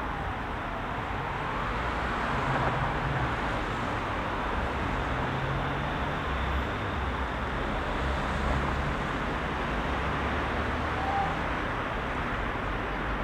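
Heavy rush-hour road traffic: a steady wash of engine rumble and tyre noise from many vehicles. An emergency vehicle's siren glides down in pitch and dies away just after the start.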